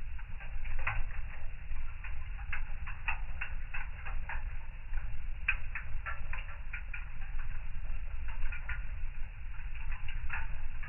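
Wood fire in a fireplace crackling: irregular sharp pops and snaps, some in quick clusters, over a low steady rumble.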